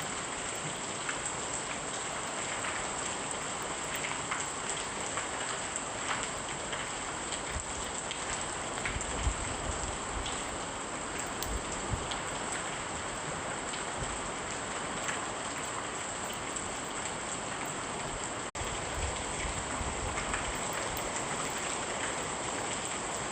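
Steady rain falling, an even hiss with scattered small ticks of drops, briefly dipping about three-quarters of the way through.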